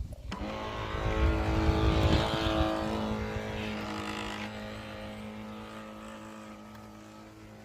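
Electric motor of a Heng Long radio-controlled work boat running with a steady whine that slowly fades, with a low rumble strongest in the first few seconds.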